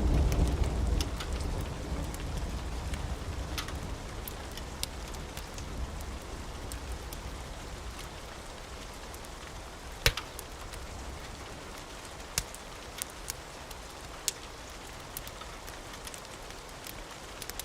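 Steady rain with scattered sharp drips and clicks, the tail of a thunder rumble dying away over the first couple of seconds.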